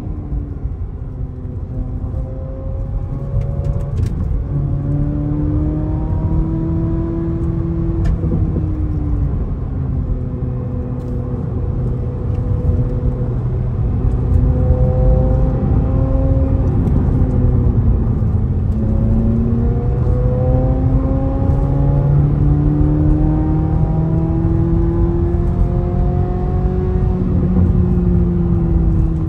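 Chevrolet Corvette C8 Z06's 5.5-litre flat-plane-crank V8, heard from inside the cabin at highway speed. Its pitch climbs, falls back, dips briefly past the middle and then climbs again as the car accelerates, over a steady low road rumble.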